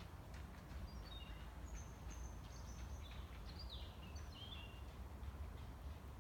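A small bird singing a run of short, high, thin chirps and whistles, some sliding in pitch, from about a second in until near the end, over a low steady background rumble.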